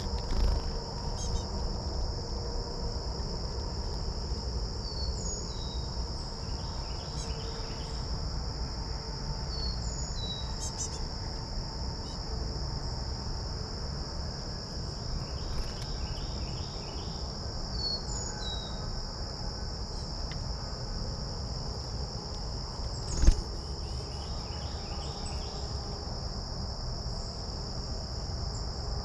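A steady high-pitched insect chorus, with short bird chirps and calls every few seconds and a single sharp knock late on.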